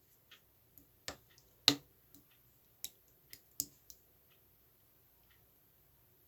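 Slime being pressed and poked by hand, making irregular small clicking pops, the loudest about a second and a half in, then going quiet for the last couple of seconds.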